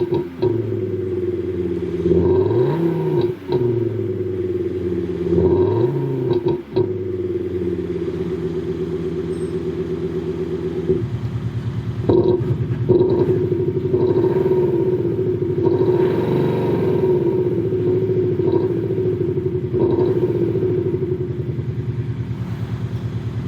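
Kia K5 (DL3) exhaust fitted with a JSR Soribak sound booster, revved three times in quick succession and then settling to a steady, pulsing idle with a couple of lighter blips.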